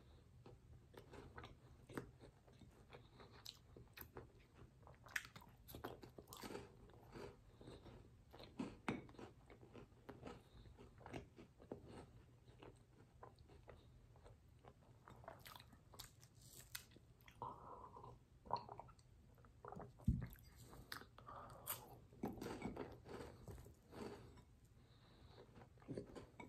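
Faint chewing and crisp crunching of a chocolate-coated peanut butter wafer bar (Reese's Sticks), in many short irregular crunches; a louder thump about twenty seconds in.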